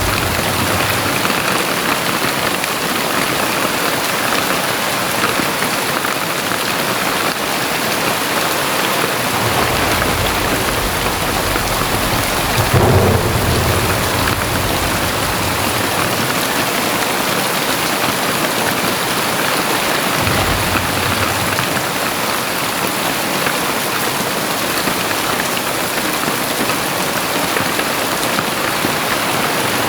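Heavy rain pouring steadily, with low rumbles of thunder; the loudest rumble comes about halfway through.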